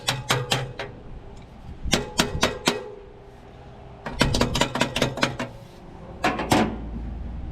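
Metal being struck with a hammer in quick bursts of blows, about five a second, with short pauses between the bursts.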